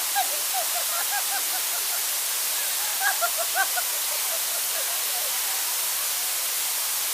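Steady rush of flowing water, with brief snatches of distant voices about a second in and again around three seconds in.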